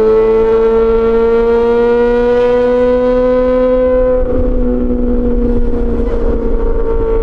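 Yamaha XJ6 S inline-four engine through an SC-Project aftermarket exhaust, pulling at high revs with its pitch rising slowly. About four seconds in, the pitch dips slightly and the sound turns rougher.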